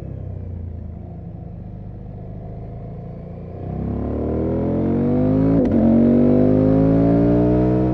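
KTM 790 Adventure R's parallel-twin engine running steadily, then about three and a half seconds in opening up hard with the revs climbing. A little past halfway a quick upshift drops the revs sharply, and they climb again under full throttle.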